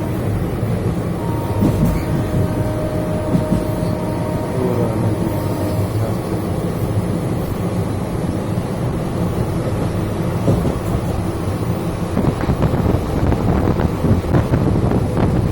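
Train running across a railway bridge: a steady low rumble, with more rattling and clicking in the last few seconds.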